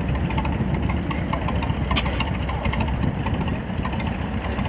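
McCormick-Deering orchard tractor engine running steadily at a low idle, with a regular clatter of firing strokes.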